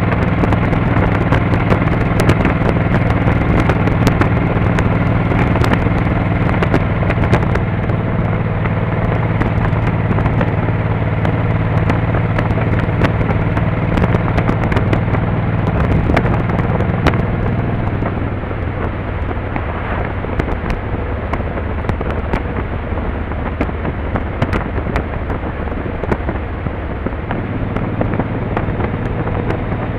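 Motorcycle engine running at a steady cruising note with road and wind noise and frequent sharp crackles; about 18 seconds in the steady engine tone drops away, as when the rider eases off the throttle.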